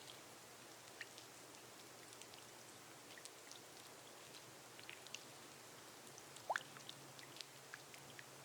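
Gentle rain on a glass roof: a faint, steady hiss with scattered drops ticking, and one louder drop plinking about two-thirds of the way through.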